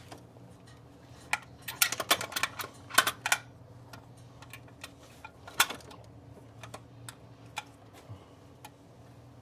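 Metal clicks and clinks as a new distributor is worked and wiggled into its seat on a Chevy engine, not yet sitting flush: a quick flurry of clicks in the first few seconds, a sharp one midway, then scattered light ticks, over a low steady hum.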